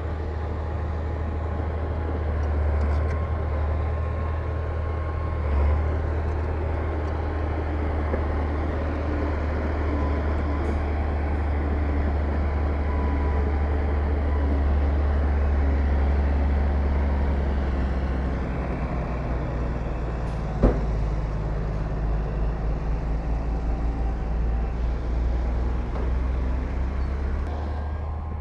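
Heavy diesel engine of earthmoving machinery running steadily with a deep rumble. About two-thirds of the way through there is one sharp knock, and after that the engine note pulses rapidly.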